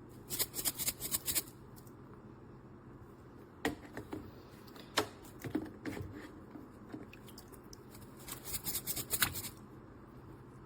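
Handling noise: two bursts of quick rustling clicks, each about a second long, near the start and near the end, with a few single sharp clicks and small rattles between.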